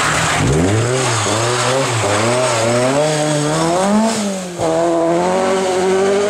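Rally car engine being driven hard, its note climbing and wavering as the revs rise and fall, with a sharp dip about four and a half seconds in before it settles into a steadier note.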